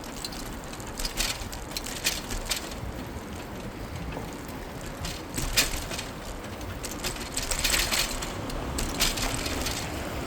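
Bicycle rolling along a city street: a steady low tyre and road rumble with irregular sharp clicks and rattles from the bike, a cluster near the middle and another in the last third.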